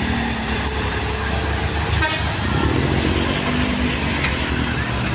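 Heavy vehicle engines running steadily amid road traffic, a continuous low rumble.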